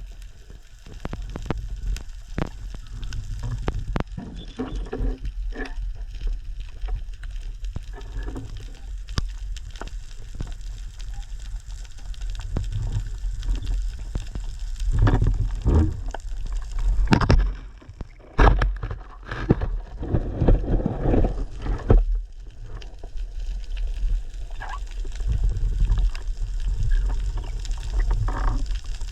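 Underwater sound picked up by a GoPro in its housing during a freedive: a steady low rumble of moving water with many scattered sharp clicks and crackles. The sound grows louder and busier in the middle, with a brief lull a little past halfway.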